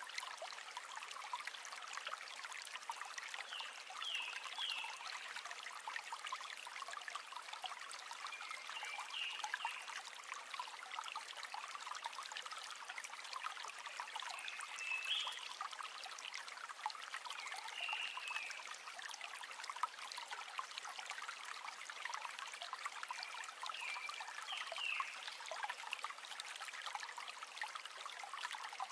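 River water flowing with a steady trickling babble, with short high chirps every few seconds over it.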